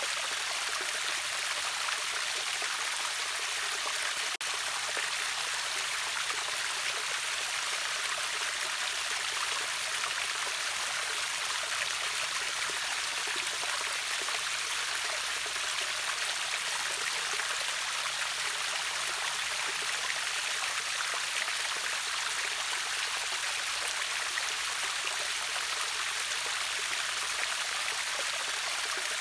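River waterfall rushing steadily, an even hiss of falling and flowing water with no pauses.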